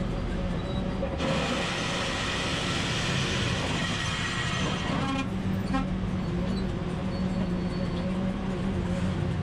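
Road traffic running at a busy city intersection, with a steady low engine hum. A loud hiss starts suddenly about a second in and cuts off sharply about four seconds later.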